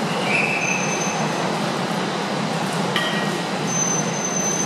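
Keisei 3000-series commuter train standing at the platform as its doors close, with a steady hum from the train. A few brief high-pitched tones sound over it, and there is a short knock about three seconds in.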